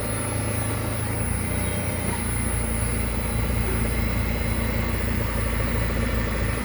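Steady low mechanical running with a fast, dense rattle from the front end of a Mercedes-Benz A160 during a noise test. The rattle is the front-end knock, traced to a worn front stabilizer link.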